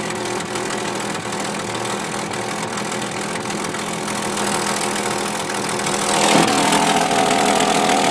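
Ford 200 cubic-inch inline-six engine idling steadily, an engine the owner says has a pretty bad exhaust leak from a badly bent tail pipe. The sound grows louder and fuller about six seconds in.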